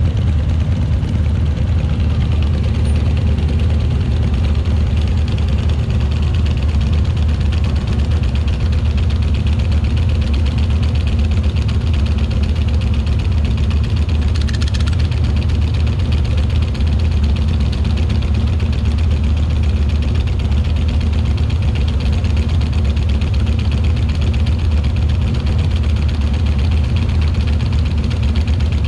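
Harley-Davidson V-twin motorcycle engine running steadily at an even speed.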